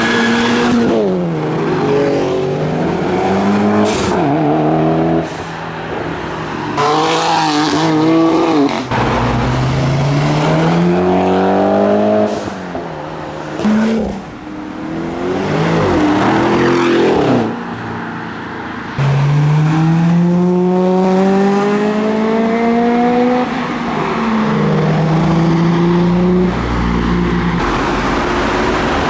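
Modified cars accelerating hard past one after another. Each engine revs up, drops at a gear change and climbs again, several runs in a row.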